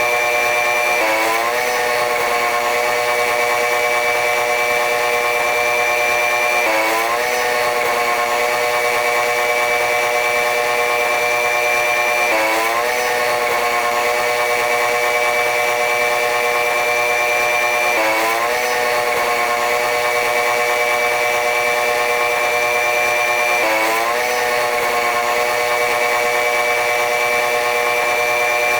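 Train running noise: a steady high mechanical whine with several held tones. Every five or six seconds the tones dip briefly and climb back, repeating identically like a loop.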